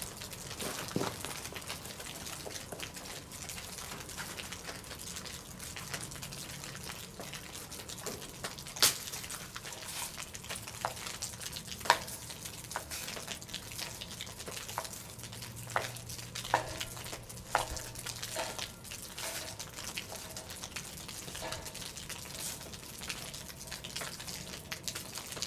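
Ground beef sizzling steadily as it browns in a pot, with sharp clicks and knocks scattered through it, the loudest about 9 and 12 seconds in.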